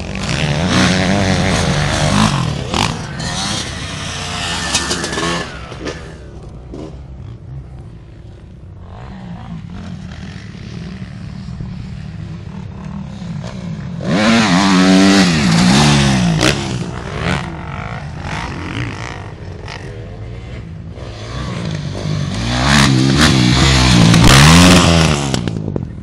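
Motocross dirt-bike engines revving hard as the bikes pass, with the pitch rising and falling through throttle changes. The bikes come loudest three times, at the start, about halfway through, and near the end, with a quieter drone of engines in between.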